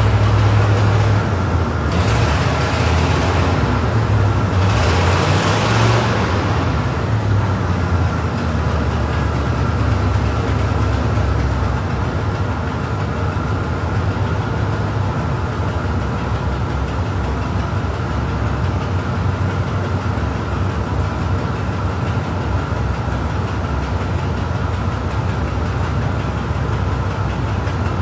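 Classic Cadillac V8 engines idling, the exhaust echoing off the concrete of a parking garage. There are a few louder surges of hissing noise in the first six seconds, then a steady low idle.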